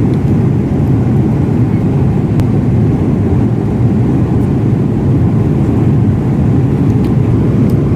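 Steady low cabin noise of a jet airliner in cruise, heard from inside the passenger cabin, with a couple of faint light ticks.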